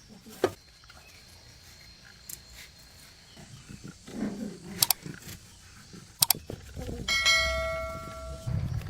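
A few sharp metallic clinks, then a ringing metal tone about seven seconds in that sounds for a second and a half before fading, like a struck metal part or tool.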